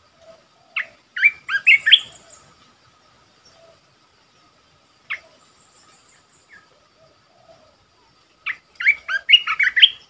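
Bulbul singing two short bursts of quick, chirpy phrases, one about a second in and one near the end, with a single short note in between. A faint steady high hum of insects and faint chirps from other birds run underneath.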